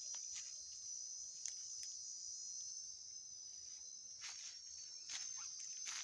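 Steady high-pitched insect chorus, with a few footsteps on the trail, most of them in the second half.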